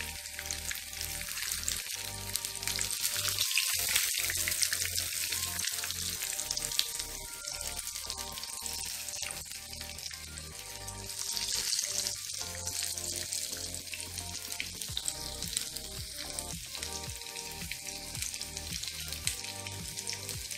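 Breaded chicken pieces shallow-frying in hot oil in a frying pan: a steady crackling sizzle that swells louder twice, a few seconds in and again around the middle.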